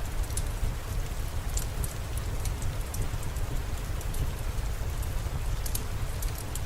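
Steady rainfall with a deep low rumble underneath and scattered sharp ticks of drops.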